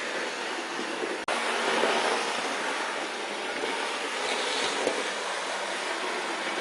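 Bachmann OO gauge model of an LNER A4 Pacific running on a model railway track: a steady whir of the model's motor and wheels on the rails. The sound drops out briefly about a second in.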